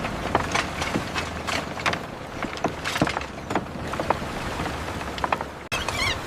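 Irregular clicks and knocks of construction work over a steady background noise, cut off abruptly near the end.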